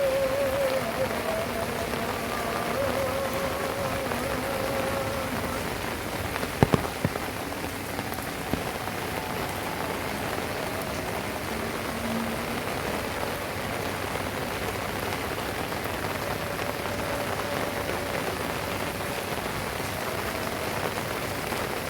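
Heavy rain falling steadily on surfaces. A few sharp knocks stand out about six and a half seconds in, with one more a couple of seconds later.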